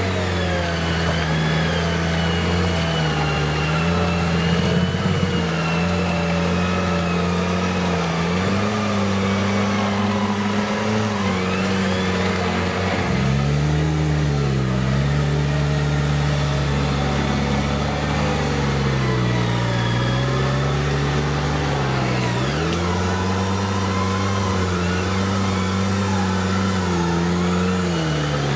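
Off-road competition vehicle's engine running under load, its revs rising and falling repeatedly.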